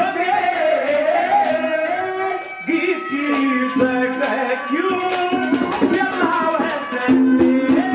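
Haryanvi ragni folk music: a melody line over a held low drone, with percussion strokes.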